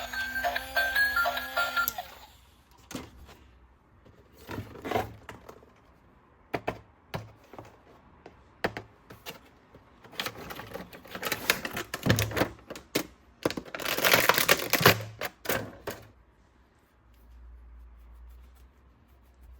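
A short electronic tune plays for about two seconds, then stops. After it come scattered clicks and knocks and bursts of rustling, loudest between about ten and sixteen seconds in, as of plastic toys and packaging being handled.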